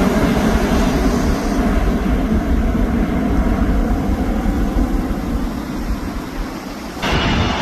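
Light piston-engine aircraft running loud with engine and propeller noise, easing off somewhat, then cutting abruptly about seven seconds in to another aircraft's engine sound.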